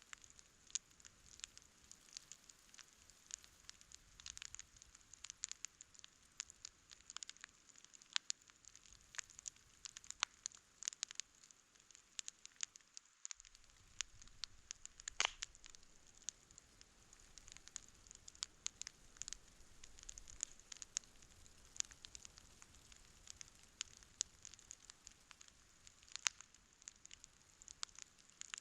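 Wood campfire crackling: a faint hiss with many irregular sharp pops, one louder pop about halfway through.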